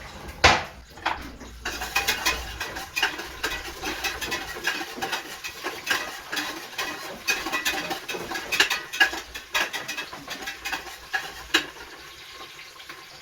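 Sliced onion frying in hot oil in a pressure cooker, making dense, irregular crackling and spattering that thins out near the end. A sharp knock comes about half a second in, with utensil stirring against the metal pot.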